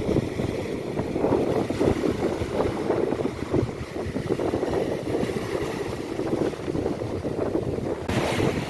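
Sea waves on a beach, a continuous rumbling wash with wind buffeting the microphone; a brighter hiss comes in near the end.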